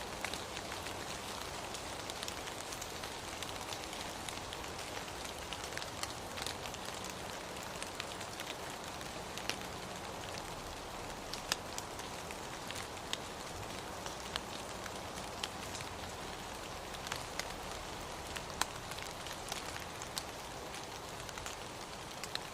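Steady rain: a constant hiss with scattered sharp drop hits at irregular moments.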